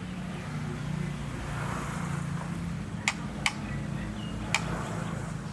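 A steady low motor hum, like a nearby engine running, with three sharp clicks about three, three and a half and four and a half seconds in.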